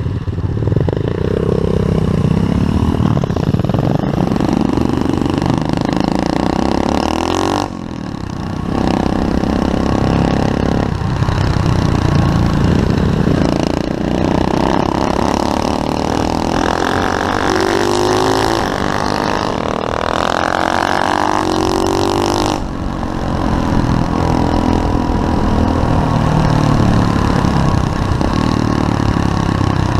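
SSR 125cc pit bike's single-cylinder four-stroke engine under riding load, revving up and down through the gears. The throttle is eased off briefly about eight seconds in and again a little past twenty seconds, then picks up again.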